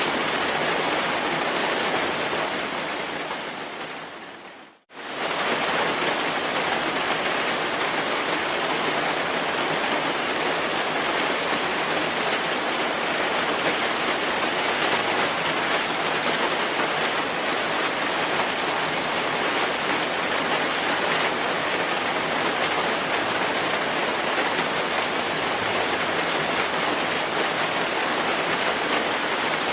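Steady, dense rainfall hiss. About two seconds in it fades away to near silence, then cuts straight back in at full level a little before five seconds, as at the seam of a looped recording.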